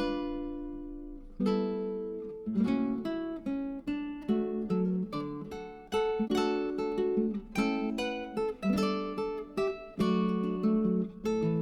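Background music: acoustic guitar playing a steady run of plucked notes and chords.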